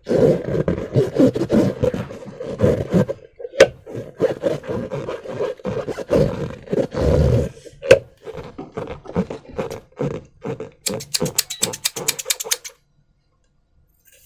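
Slime being squished and worked in a rubber balloon by hand: a dense, irregular run of wet squelches. Near the end comes a quick series of sticky clicks, then it stops.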